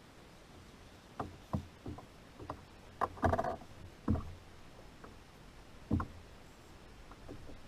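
Irregular knocks and taps of gear and hands moving against a kayak hull, about ten in all, with a busier cluster about three seconds in.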